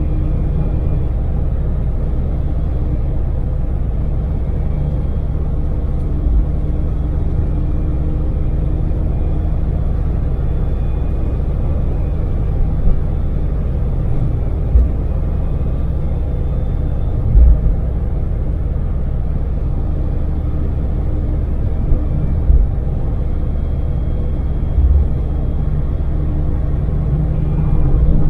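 Daewoo Damas minivan with its LPG-fuelled three-cylinder engine, driving at a steady speed: an even engine drone and road rumble, with a few short low thumps from bumps in the road.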